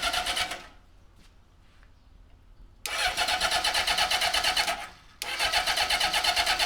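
Honda CB750K2's inline-four engine cranked on its electric starter in three separate bursts, the second and third about two seconds each, with an even pulsing beat and no firing: the engine is failing to start.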